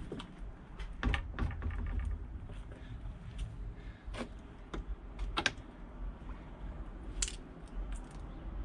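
Irregular light clicks and knocks of hands working an outboard motor's controls and fittings, with a cluster about a second in and single sharp clicks later. The engine is not running.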